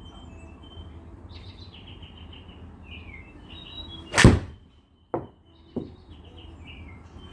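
A single sharp impact as a Yamaha RMX VD40 iron strikes a golf ball, about four seconds in, followed by two softer knocks. Birds chirp throughout.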